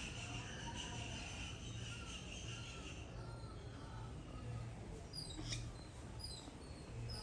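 Woodpeckers calling: two quick runs of short, high notes falling in pitch, about five and six seconds in, with fainter chirps before them. A steady high buzz sounds under the first three seconds and then stops.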